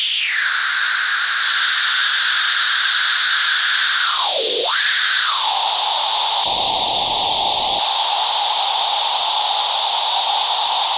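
Synthesizer noise through a Patching Panda Vibrazum Mk2 triple resonant filter, a steady hiss with several resonant peaks sweeping. One peak dives down low and back up about four seconds in, and the low end briefly opens up a few seconds later.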